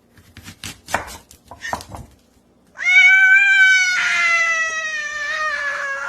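A cat giving one long, drawn-out meow that slowly falls in pitch, after a few light clicks and taps.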